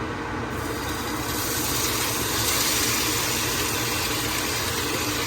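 Kitchen range hood vent fan running with a steady hum, joined about half a second in by a louder, even hiss that then holds steady.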